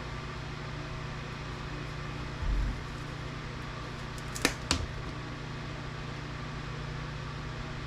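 Two sharp clicks in quick succession about four and a half seconds in, with a dull thump a couple of seconds before: brass outlet connectors being worked loose from their plastic housings on a scrapped APC backup unit. A steady hum runs underneath.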